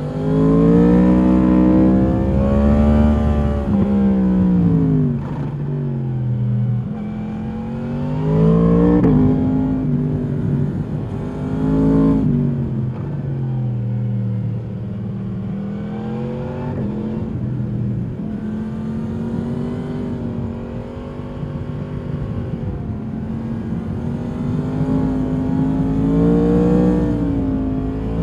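A 2022 Yamaha MT-10's crossplane inline-four through its stock exhaust, heard on board, pulling hard and dropping back again and again as the rider accelerates and shifts. There are several pulls in the first half, a steadier stretch in the middle and another rise near the end.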